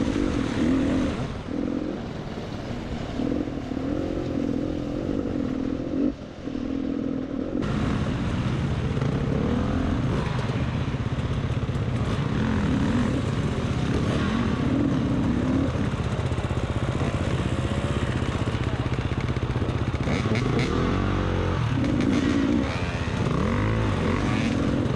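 Beta 300 RR two-stroke dirt bike engine being ridden, its revs rising and falling as the throttle opens and closes, with a brief drop in loudness about six seconds in.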